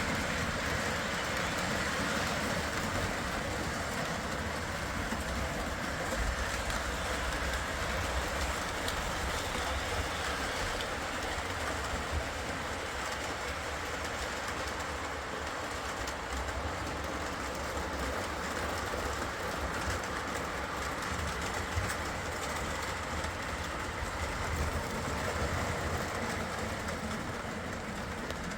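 O gauge model trains running on their track: a steady motor hum and wheel rumble, with a few faint clicks from the wheels over the rails.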